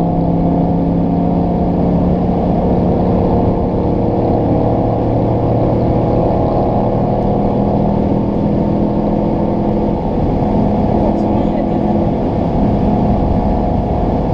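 Audi RS4 B7's 4.2-litre V8 drone at a steady cruise, through an exhaust with the rear silencers bypassed. The pitch mostly holds and shifts slightly a couple of times.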